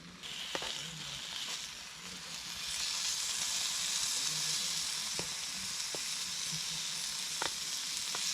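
Food frying in a hot pan, a steady sizzle that swells about three seconds in, with a few sharp pops and spatters.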